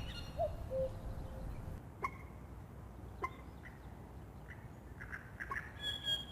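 Common cuckoo giving one two-note 'cuck-oo' call about half a second in, a short higher note then a longer lower one. Other songbirds give scattered short chirps later on.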